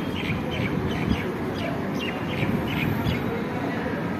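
A bird calling in a quick series of short, falling chirps, about three a second, stopping about three seconds in, over a steady low rumble.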